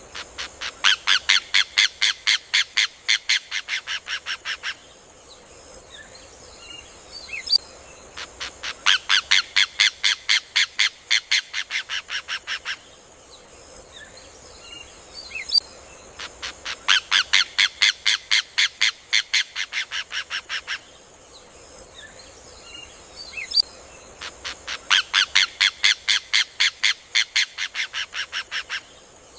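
Rufous hornero (João de Barro) singing: four bouts of loud, rapid, evenly spaced notes, about five a second for roughly four seconds each, tapering off at the end of each bout, about eight seconds apart. Faint chirps from other birds fill the gaps.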